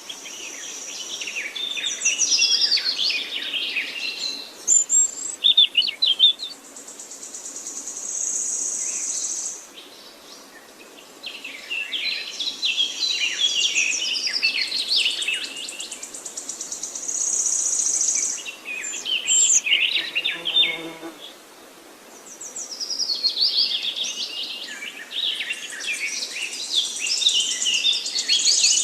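Songbirds singing in three long bouts of rapid, varied high notes, with short lulls between them. A buzzy high trill comes near the end of each bout.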